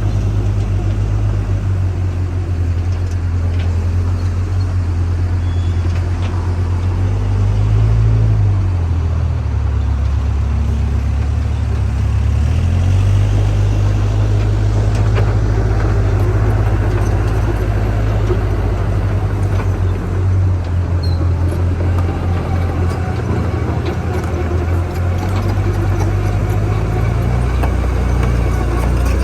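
Diesel engine of a JCB backhoe loader running under load. Its low note shifts in pitch about eight seconds in and again a few seconds later, as the revs change.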